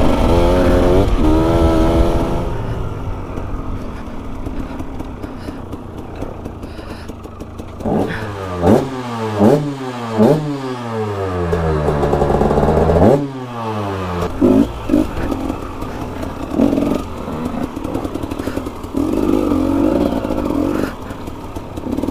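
KTM 250 EXC two-stroke enduro motorcycle engine being ridden off-road, its pitch rising and falling with the throttle. Around the middle comes a quick run of sharp revs, then a longer rev that drops away suddenly.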